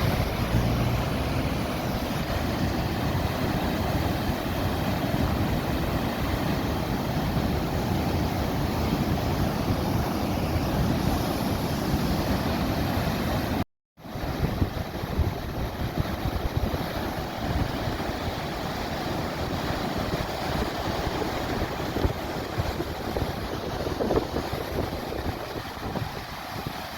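Steady roar of a heavy thunderstorm downpour with strong wind gusting against the microphone. The sound cuts out for a moment about halfway through.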